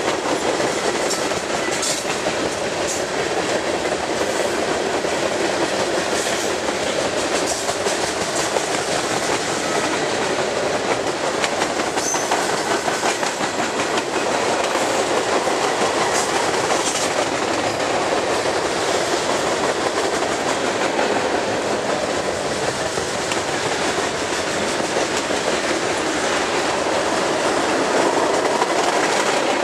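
Long freight train of tank cars and covered steel-coil cars rolling past: a steady rumble of steel wheels on rail, with sharp wheel clicks scattered through it, more of them in the first half.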